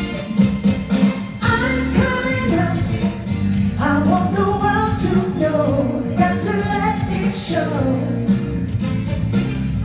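A singer performing live over a band backing with a steady beat; the song's instrumental lead-in gives way to the sung melody about a second and a half in.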